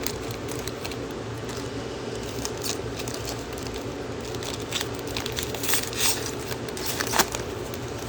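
Plastic trading-card pack wrapper crinkling and tearing open as the cards are handled, in scattered crackles and clicks over a steady room hum.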